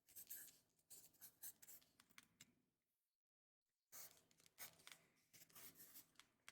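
Faint writing on paper: quick scratchy strokes in two runs, with a pause of about a second between them.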